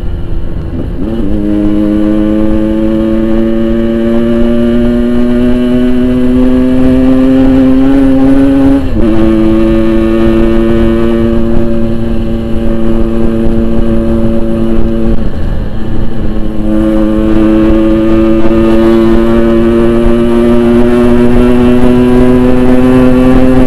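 Yamaha RX-King 135cc two-stroke single with an aftermarket Boban exhaust, ridden under load. Its pitch climbs steadily through each gear, then drops sharply at an upshift about nine seconds in, and again around fifteen to sixteen seconds in.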